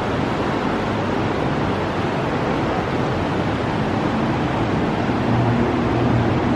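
Steady rushing of the Niagara River's fast water below the gorge trail, with a low engine hum joining about five seconds in.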